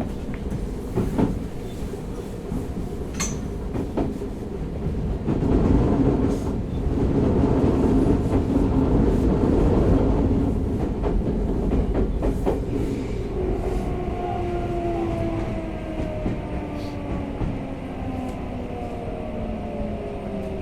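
Interior running sound of a Tokyo Metro 05 series subway train with Mitsubishi IGBT-VVVF traction equipment: wheel rumble with clicks over the rail joints. From about two-thirds of the way in, the inverter-driven motors whine in several tones that glide steadily down in pitch as the train brakes for its station stop.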